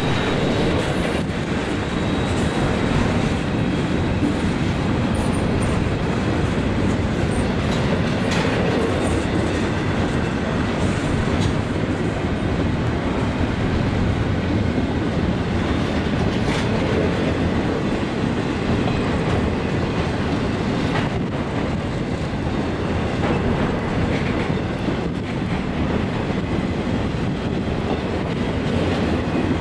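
Freight train rolling past, its steel wheels clicking over rail joints above a steady rumble.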